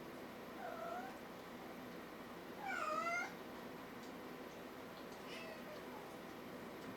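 Kitten meowing: three short mews, the loudest near the middle and a faint one later.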